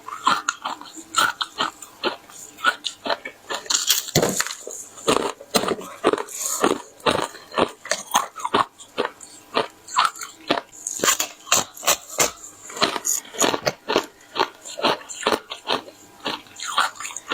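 Shaped frozen ice being bitten and crunched close to the microphone: an irregular run of sharp cracks and crunches, several a second.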